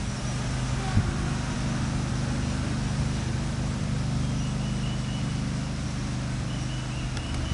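A steady, low engine hum, like a motor vehicle running, over an even faint hiss.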